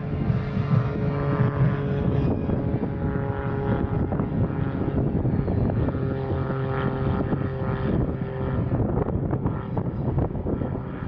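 Steady mechanical drone, a low hum with several steady higher tones held through it, over rough wind noise on the microphone.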